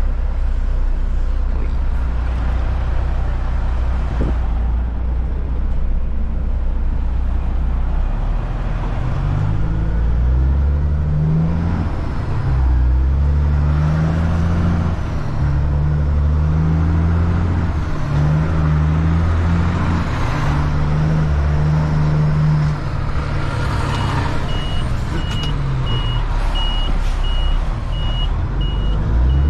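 Caterpillar C-15 diesel in a Kenworth truck idling, then pulling away about eight seconds in, its revs climbing and dropping through several gear changes. A steady high-pitched beeping starts near the end.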